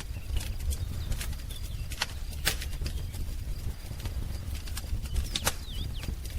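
Wood fire crackling in a fireplace: irregular sharp pops and snaps over a low steady rumble, with a couple of short bird chirps near the end.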